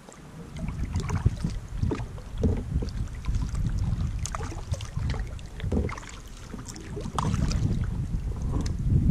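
Kayak paddle strokes splashing in the water at an irregular pace, with wind buffeting the microphone in a steady low rumble.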